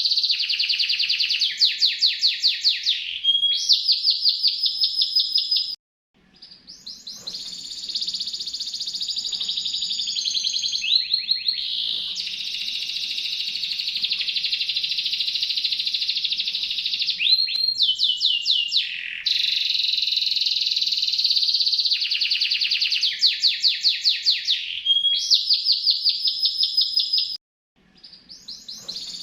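Domestic canary singing a long, continuous song of rapid trilled rolls and buzzy sustained phrases. It breaks off abruptly twice, about six seconds in and near the end, and fades back in each time.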